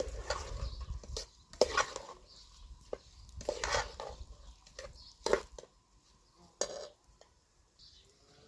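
Kitchen utensils stirring, scraping and clinking against cookware in irregular strokes, busiest over the first five seconds or so, with a last clink near the end.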